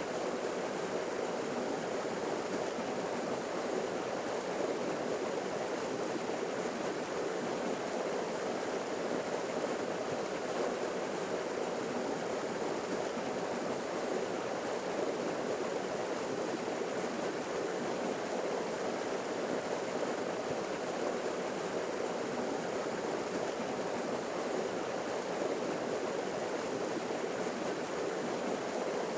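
Forest waterfall: water falling and rushing in a steady, even roar, fullest in the lower-middle range, with no change throughout.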